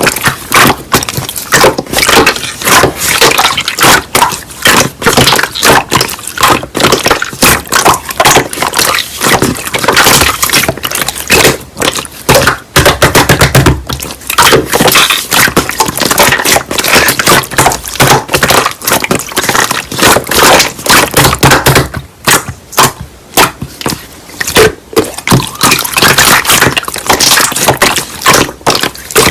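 Slime being squeezed and worked by hand, giving a dense run of wet clicks and pops.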